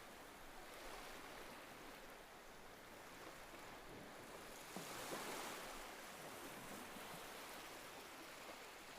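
Faint ocean waves washing onto a shore, a steady wash that swells with one wave about five seconds in.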